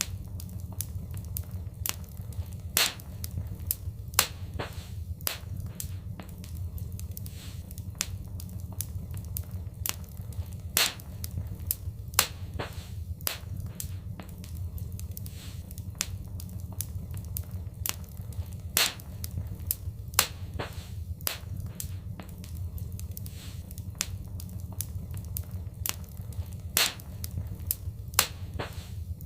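Fireplace fire crackling: frequent irregular sharp pops and snaps, a few much louder than the rest, over a steady low rumble.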